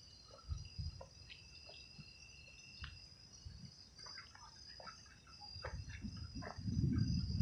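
Night insects trilling steadily on a high, continuous tone, with scattered faint ticks. A low rumble swells up near the end and is the loudest part.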